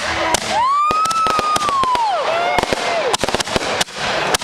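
Fireworks going off in quick succession: rapid sharp bangs and crackling pops, with a high whistle that rises, holds for about a second and falls away.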